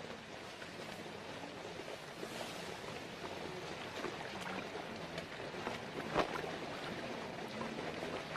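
Water splashing and sloshing in a shallow pond: a steady wash with many small splashes and one sharper splash about six seconds in.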